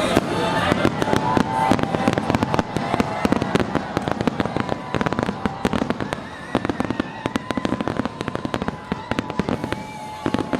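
Aerial fireworks bursting in a rapid run of sharp pops and crackles, thickening about two seconds in.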